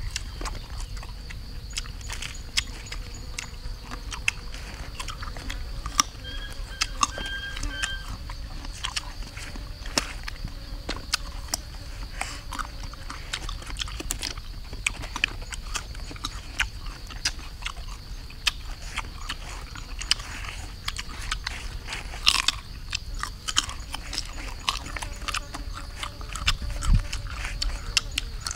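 A person biting and chewing sour fruit, with irregular crunches and wet mouth clicks throughout, over a steady high-pitched hum.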